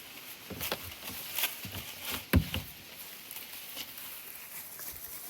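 Footsteps, uneven and irregular, with one louder knock a little past two seconds in.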